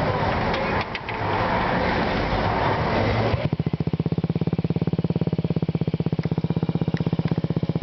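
Honda Ruckus 50cc four-stroke single idling through a Yoshimura TRC aftermarket exhaust: a steady, rapid, even putter. This begins abruptly about three and a half seconds in, after a stretch of rushing noise with a few clicks.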